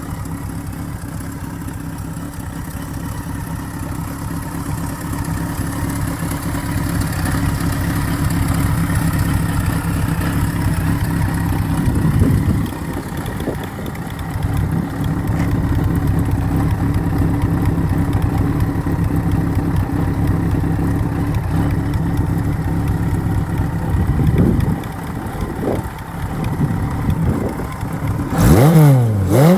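Kawasaki KZ1000's air-cooled inline-four running at idle, with a couple of light throttle blips. Near the end comes a sharper rev that rises and falls back.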